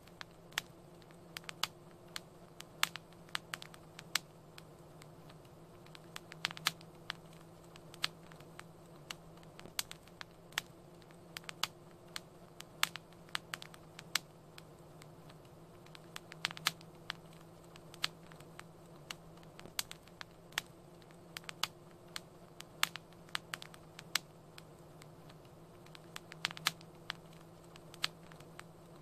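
Wood fire crackling in a fireplace: irregular sharp pops and snaps, several a second at times, over a steady low hiss of burning.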